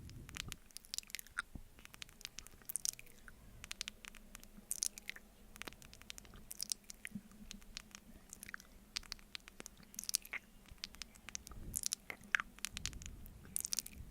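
Close-miked ASMR mouth sounds of eating honey off a spoon: sticky, wet smacks and clicks of lips and tongue in irregular clusters, with no talking.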